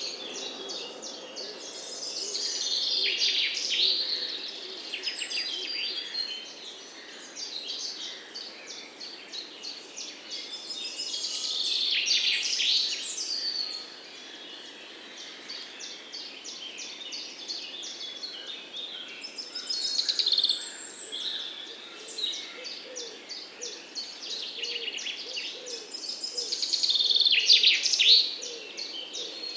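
Several wild birds chirping and singing at once, a dense chorus of quick high chirps and trills, with louder songs swelling up about four times.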